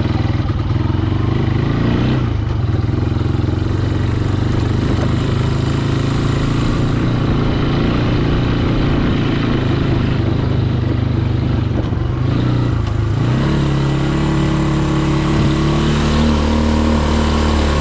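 A boat engine, restarted after the boat was sunk and swamped, running steadily. Its note shifts a little past two-thirds of the way through and then holds lower and steady.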